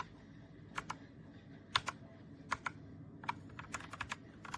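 Keystrokes on a compact mechanical keyboard, the Redragon K617 60%: about a dozen irregular clicks, several in quick pairs, as keys are pressed.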